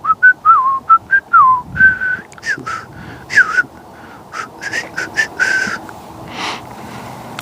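A man whistling a tune: a quick run of short notes with slides between them, thinning out and stopping about six seconds in.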